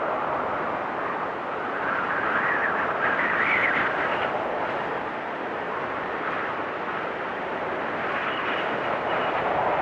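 Storm wind blowing hard and steadily, swelling and easing in gusts, with a whistling, rushing tone that rises in pitch during the stronger gusts.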